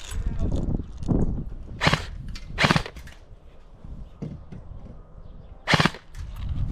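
Airsoft gun firing three single shots: two about a second apart near the start, and a third a few seconds later. Low thumps and rustling of movement run underneath.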